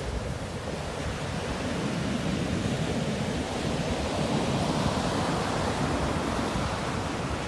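Sea waves washing onto the shore, a steady rush of surf that swells toward the middle and eases off near the end.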